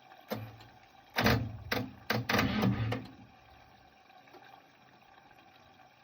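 A click, then a generator's electric starter turning over in several short, choppy bursts for about two seconds, run from a jump-start pack because the generator's own battery is dead.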